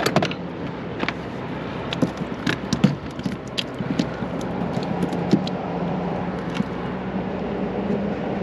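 Clicks and knocks of a just-caught pompano being handled and laid on a measuring board on a kayak, scattered through the first six seconds or so, over a steady low hum.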